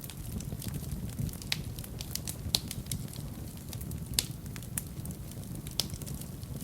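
Fire burning in a fireplace: a steady low rumble of flames with irregular crackles and sharp pops, the loudest about two and a half and four seconds in.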